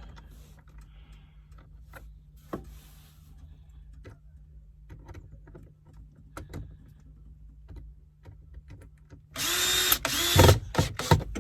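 Scattered light clicks of parts being handled, then near the end a power drill driving screws in two short runs, its motor whine rising in pitch each time it spins up.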